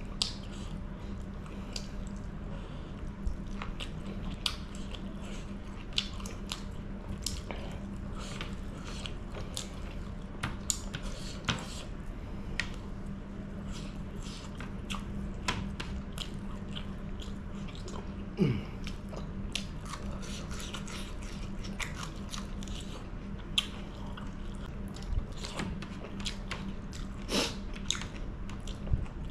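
Close-miked chewing and biting of chicken curry, with frequent short wet mouth clicks and smacks. A steady low hum runs underneath.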